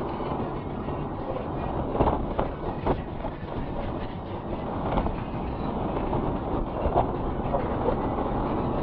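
A vehicle driving over a rough road: a steady rumble with rattles and a few sharp knocks.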